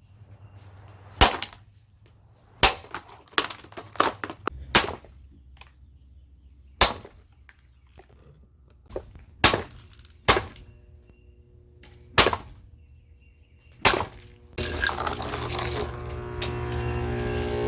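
Plastic box fan being smashed: about ten sharp blows a second or two apart. Near the end a loud steady noise with a hum sets in.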